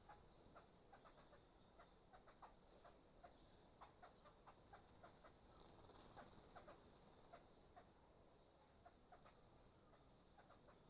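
Small birds bathing: faint, quick, irregular ticks, several a second.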